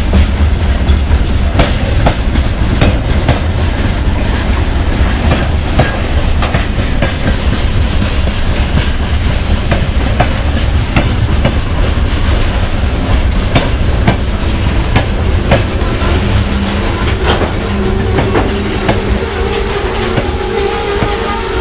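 Freight wagons of an arriving train rolling past at trackside, a steady rumble with frequent sharp clicks of wheels over rail joints. A steady squealing tone from the wheels joins in the last few seconds.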